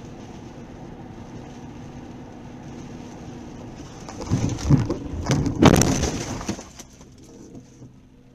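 A car's steady driving noise, then about four seconds in a collision: a run of loud impacts with crunching metal and breaking glass over about two seconds, dying away after.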